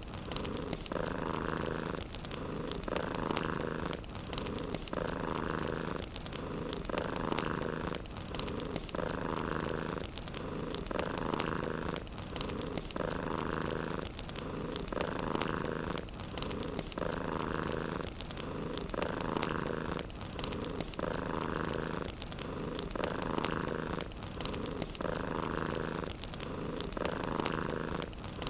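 Domestic cat purring steadily, the purr swelling and easing with each breath about every two seconds, over faint crackling from a wood fire in a fireplace.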